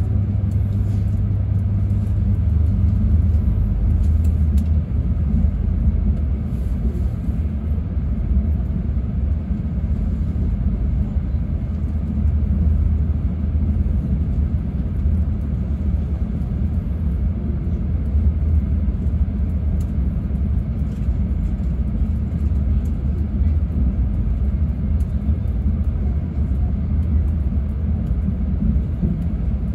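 E6 series Komachi shinkansen train running, heard from inside the passenger cabin: a steady low rumble of wheels and running gear on the rails.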